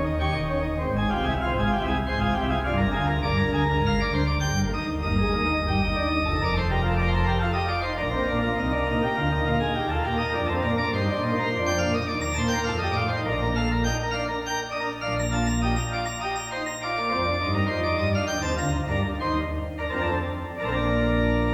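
Organ music: slow sustained chords over held bass notes, the chords changing every second or two.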